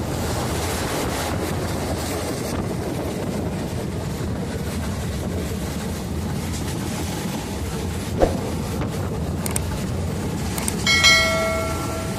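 Indian Railways passenger train running along the track, a steady rumble of wheels on rail. A single sharp knock comes about eight seconds in, and a horn sounds for about a second near the end.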